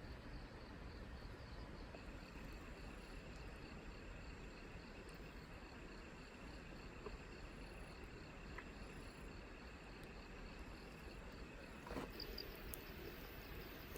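Faint insects chirping: a high, evenly pulsed chirp with a second steady trill joining about two seconds in, over a low background hiss.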